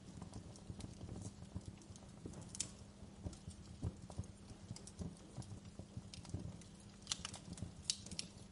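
Wood fire crackling in a fireplace: irregular snaps and pops over a low rumble of burning, with a sharper pop about two and a half seconds in and a cluster of loud pops near the end.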